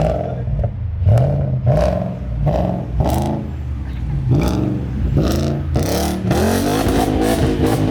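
Car engine being revved in a string of short blips, its pitch rising and falling again about once or twice a second.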